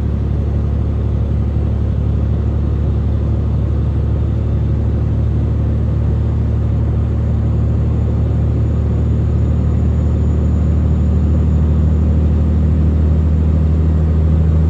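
Semi truck's diesel engine running steadily under way, a deep even drone that grows slightly louder near the end.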